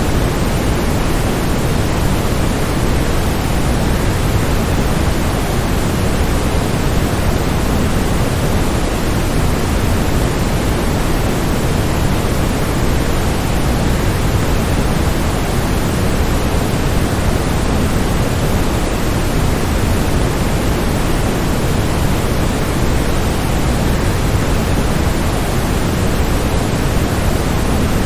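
Steady, unbroken rush of a waterfall, a dense even hiss weighted toward the low end with no changes or separate events.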